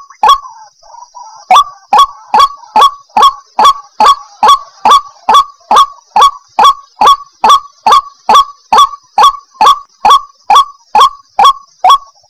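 White-breasted waterhen (ruak-ruak) calling: a loud, harsh call repeated about twice a second in a long unbroken series, after a short pause about a second in.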